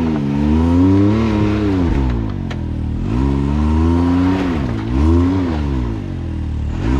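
Side-by-side UTV engine revving up and down in repeated throttle bursts while crawling through a rough trail obstacle, with a steady high whine underneath. A single click comes a little past two seconds in.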